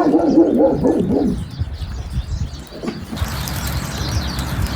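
Wild birds chirping outdoors: short high chirps from about three seconds in, over a steady background hiss. The first second and a half holds a low wavering sound.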